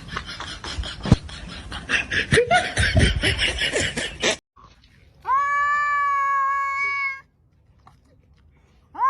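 Cat meowing: one long call held at a level pitch about five seconds in, with a second call starting right at the end. Before it come a few seconds of noisy, choppy sound with what may be laughter.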